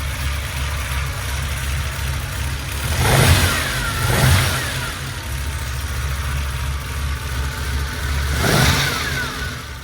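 1964 Ferrari 330 America's 4.0-litre Colombo V12 on triple Weber carburettors idling shortly after a cold start, blipped three times with the throttle, each rev rising and falling quickly: twice close together about three and four seconds in, and once more near the end.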